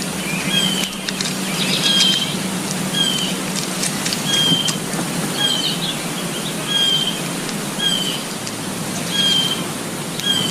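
A bird calling: a short, high, slightly falling note repeated about once a second, over a steady hiss of outdoor background noise with a few faint clicks.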